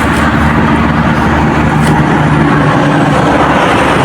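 Steady road-traffic noise, with the hum of a motor vehicle's engine standing out through the first few seconds.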